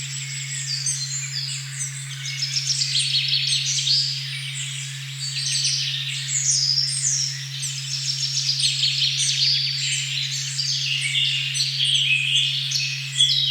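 A steady 136.1 Hz tone, tuned as the heart-chakra "OM" frequency, held without change under a forest dawn-chorus-like din of many songbirds chirping and trilling over one another.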